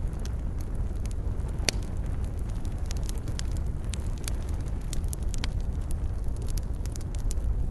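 Wood campfire burning: a steady low rumble of flames with frequent irregular crackles and pops from the burning wood, a sharper pop nearly two seconds in.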